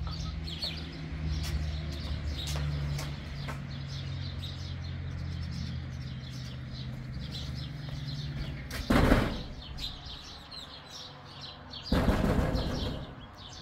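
Small birds chirping repeatedly, over a low steady hum that stops about seven seconds in. Two loud bursts of noise break in near the end, a short one and then a longer one about three seconds later.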